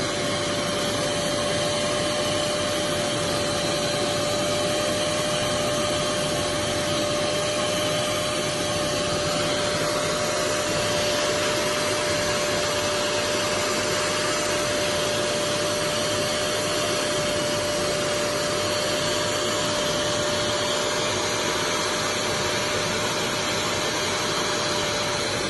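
Small portable carpet spotter extractor running steadily, its vacuum motor giving an even suction noise with a steady whine, while it extracts a cat urine spot.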